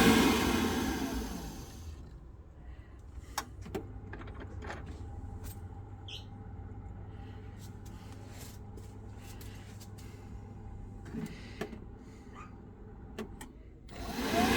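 A steady whooshing blower dies away over the first two seconds. It leaves a low hum with scattered clicks and knocks, and the whoosh starts up again near the end.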